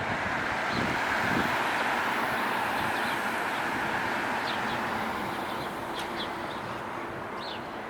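City street traffic: a vehicle goes by with a rush of tyre and engine noise that swells in the first couple of seconds and slowly fades. Short high bird chirps come through several times in the second half.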